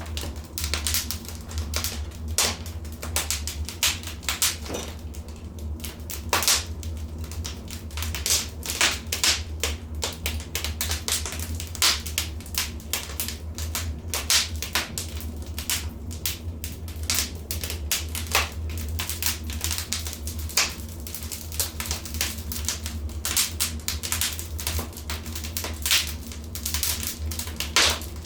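Wood fire crackling and popping in a fireplace: a dense, irregular run of sharp snaps and cracks over a steady low rumble.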